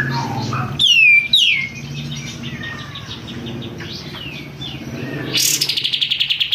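Kapas tembak songbird singing loudly, as a lure recording: two sharp whistles sliding downward about a second in, scattered chirps, then a fast, even, high trill starting near the end.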